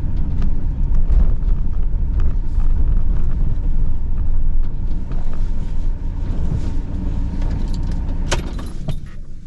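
Steady low road and engine rumble heard from inside a moving vehicle, easing off near the end, with a couple of sharp clicks shortly before it dies down.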